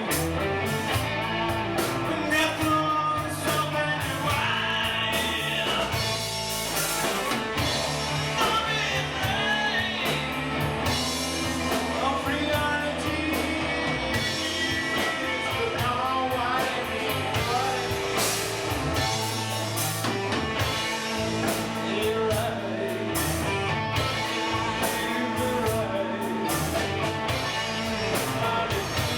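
Live rock band playing a song: electric guitars, bass guitar and drum kit with a singer's voice over them.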